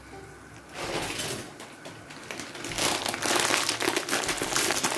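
Shrimp sizzling and crackling in a frying pan as their broth cooks off, a dense crackle that sets in about a second in and grows louder partway through.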